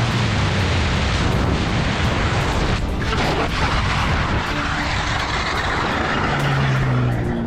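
Motorcycle ridden at speed: dense wind and road roar over the running engine, which is failing, smoking and with its oil light on. A steady low hum comes in near the end.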